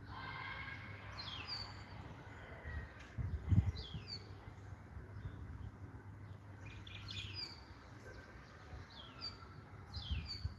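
Songbird giving a short falling call about every two seconds over steady low background rumble, with a low thump about three and a half seconds in.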